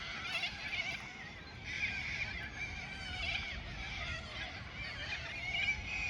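Many birds calling over one another in a dense, continuous chorus.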